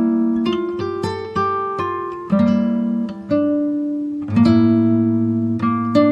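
Background music: acoustic guitar plucking notes and chords in a steady, gentle rhythm, each note ringing and fading.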